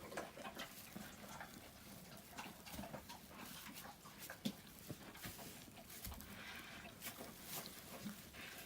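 Three-week-old Central Asian Shepherd (Alabai) puppies making faint whimpers and squeaks amid scattered scuffling clicks.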